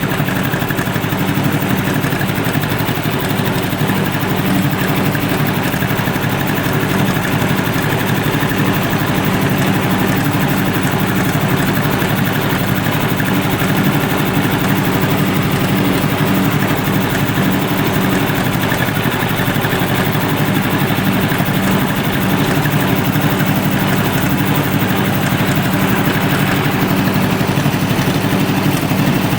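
Tractor engine running at a steady speed, heard from the seat as the tractor drives along.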